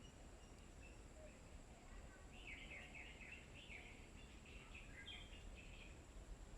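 Faint bird chirps: a quick run of about eight short, falling chirps about two seconds in, then a few more near the end, over a steady low background hum.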